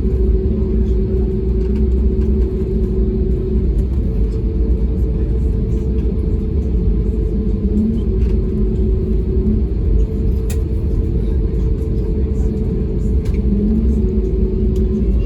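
Airbus A320neo's engines running, heard from inside the cabin as a steady, loud low rumble with a constant hum on top.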